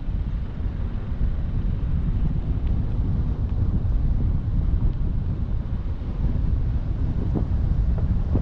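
Wind buffeting the microphone: a steady low rumble with no clear tones.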